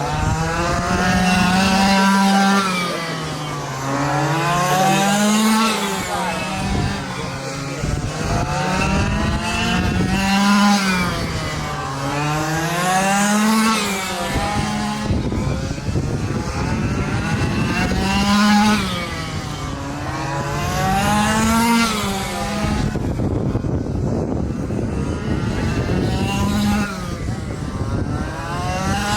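Several quarter-scale RC super trucks racing around an oval, their small engines revving up and easing off in a lap rhythm. Together the engines swell and fall about every four seconds, with gliding pitches as the trucks pass.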